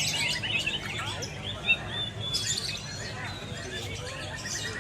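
Several caged songbirds singing at once: dense, overlapping rapid chirps and whistles, with one sharper, louder note just under two seconds in.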